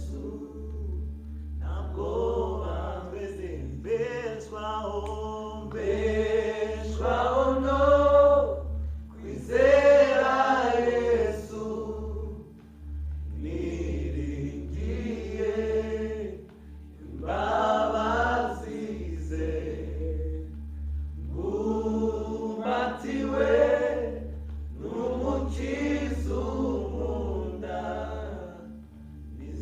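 Worship singing in phrases a few seconds long with brief gaps between them, over a steady low hum.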